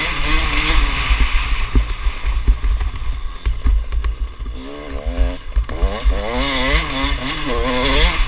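Two-stroke motocross bike engines revving up and down over the track, the pitch rising and falling quickly from about halfway through. Heavy wind buffeting on the microphone.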